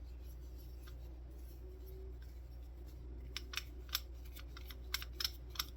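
Handling of a kitchen sink basket strainer as plumber's putty is pressed around it: a run of light clicks and taps starting about halfway through, over a faint steady hum.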